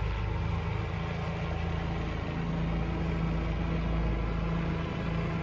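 Helicopter flying nearby, its rotor and engine making a steady low drone.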